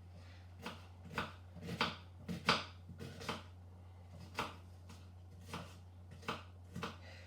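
Kitchen knife dicing onions on a cutting board: about a dozen sharp, uneven knife strokes, bunched closer together in the first three seconds and more spread out after that.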